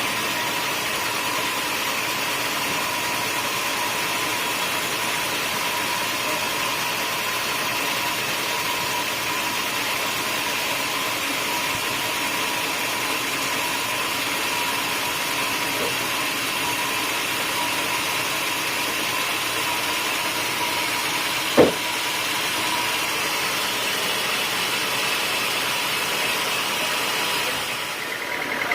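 Sawmill machinery running steadily: a continuous mechanical noise with a constant whine, and one sharp knock about three-quarters of the way through.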